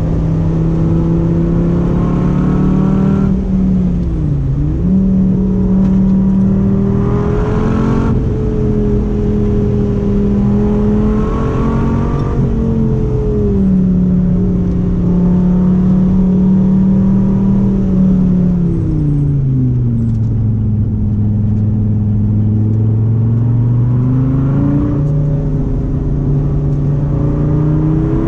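Dodge Viper V10 engine running at track pace. It holds steady revs for several seconds at a time, with brief dips as the driver lifts or shifts. Past the middle the revs drop well down, then climb again.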